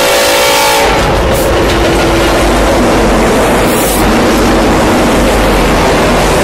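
Union Pacific diesel locomotive horn sounding a steady chord, cut off abruptly about a second in. Then the lead locomotives of a freight train pass close by with a heavy engine rumble and wheel-and-rail noise.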